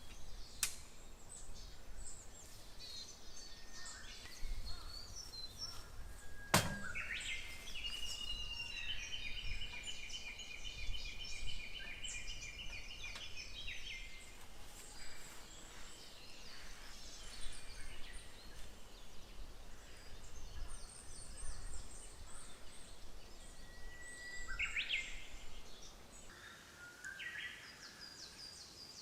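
Wild forest birds calling and singing, with one bird giving a long trill of rapidly repeated notes from about eight to fourteen seconds in. A sharp click about six seconds in, over a steady low rumble.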